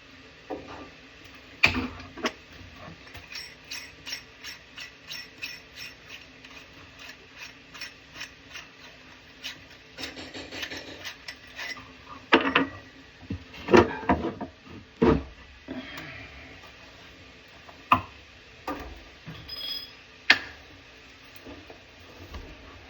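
Hand tools and metal parts at work on a faucet installation: a steady run of evenly spaced clicks, a little over two a second, for several seconds, then scattered louder knocks and clanks.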